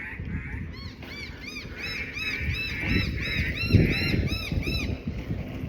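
A bird's rapid series of short, harsh calls, about four a second, repeated for several seconds: the alarm calling of an over-protective bird dive-bombing a person.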